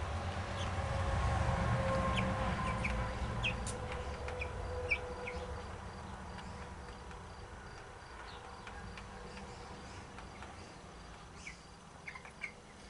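Chickens clucking and peeping sporadically in short calls, over a low rumble that fades away after the first few seconds.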